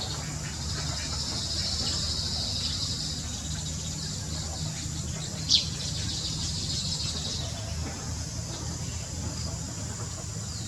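Outdoor ambience with a high buzzy trill in two stretches of a few seconds each, typical of insects, and one sharp falling bird chirp about five and a half seconds in, over a low steady hum.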